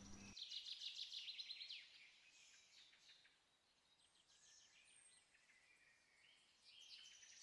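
Faint birdsong: a fast high trill in the first couple of seconds, then scattered short chirps.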